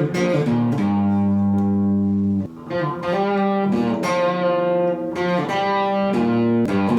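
Epiphone Les Paul electric guitar, freshly refretted with stainless steel frets, played through an amplifier. Sustained chords and notes ring and change about every second, with a short break about two and a half seconds in.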